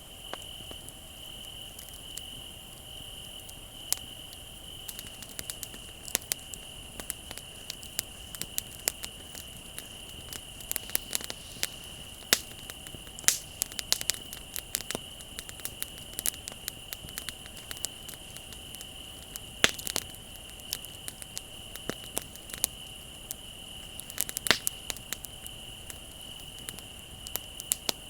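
Wood fire crackling with frequent irregular sharp pops and snaps, over crickets chirping in a steady high trill.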